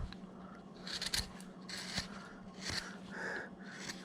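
Wide No. 9 carving gouge paring wood by hand in about four short scraping cuts. A faint steady hum runs underneath.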